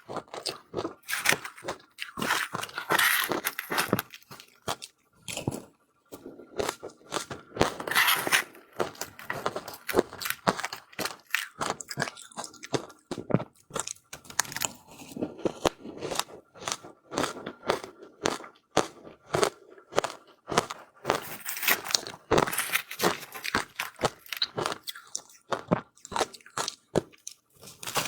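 Close-miked crunching, biting and chewing of ice: dense crackling crunches with louder bites now and then.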